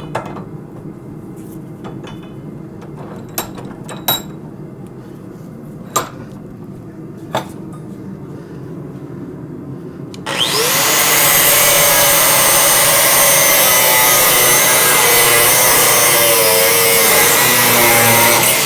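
A few light knocks over a low steady hum, then about ten seconds in a handheld power tool, most like an angle grinder, spins up with a fast rising whine and runs loud and steady on steel coil spring for the rest of the stretch.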